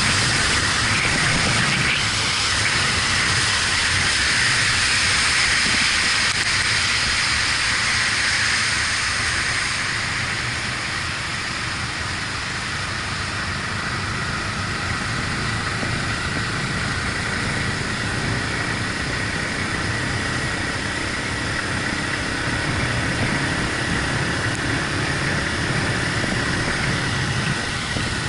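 Ride noise from a Yamaha MT-125 motorcycle on wet roads: a steady rush of wind and wet-road hiss, with the engine running underneath. It eases a little partway through.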